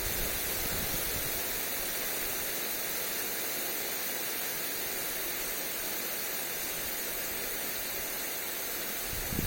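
Lawn sprinkler spraying water onto grass: a steady, even hiss. A gust of wind buffets the microphone near the end.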